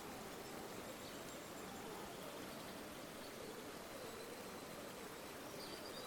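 River water flowing steadily over stones, an even rushing wash. A faint high chirp comes in near the end.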